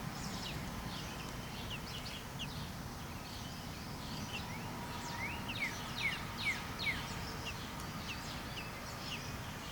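Baby robin chirping: short, high chirps, several a second, mostly quick downward slides, over a steady low background hum.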